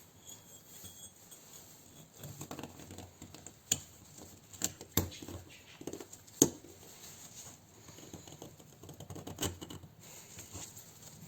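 Hands working with tools and small parts: an irregular series of light clicks, taps and rustling, with a few sharper knocks, the loudest about six and a half seconds in.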